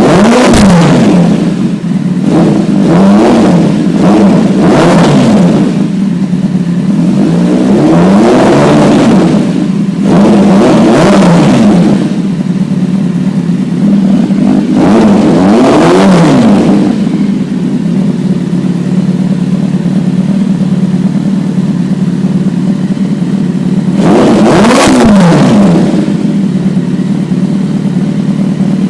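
2008 Kawasaki ZX-10R inline-four running through a RaceFit Growler aftermarket exhaust, loud, idling and blipped to high revs about seven times, each rev rising and dropping back quickly to idle. The last blip comes about three-quarters of the way in, then it idles steadily.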